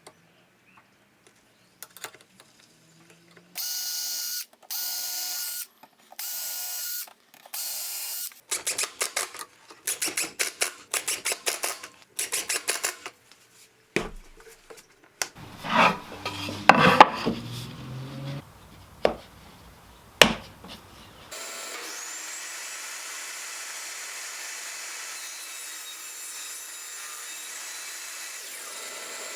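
Woodshop work on a wooden jig: four short runs of a power tool with a steady whine, then a quick string of short power-tool bursts, then knocks of wood and tools being handled. A steady, even machine noise sets in about three quarters of the way through.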